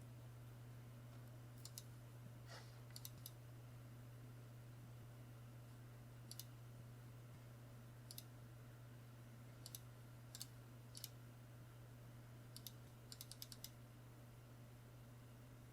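Sparse light clicks from a low-profile keyboard with Kailh Choc Red switches, some single and some in short quick runs, over a steady low hum.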